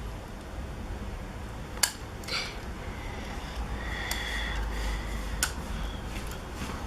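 Small die-cast metal toy vehicles being handled, giving a few sharp clicks and light clinks, the clearest about two seconds in and again past five seconds, over a low steady room hum.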